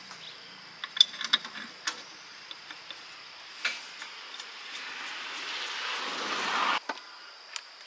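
Light metal clicks and taps, then a rushing hiss that swells for about two seconds and cuts off suddenly.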